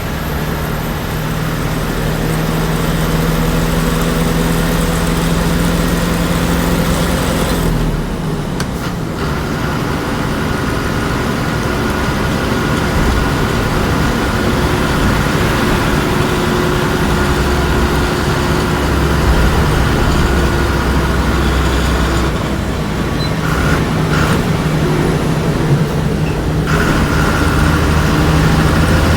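Ashok Leyland bus diesel engine running steadily under load, its note breaking and changing briefly about eight seconds in and again shifting near the end.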